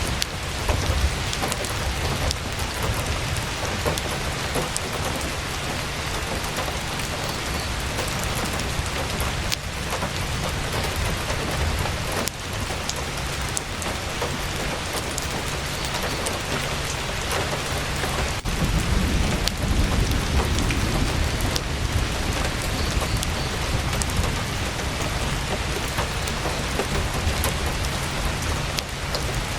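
Heavy rain drumming on a tent's fabric: a steady, dense hiss over a deep low rumble, which swells for a couple of seconds past the middle, with scattered sharp crackles.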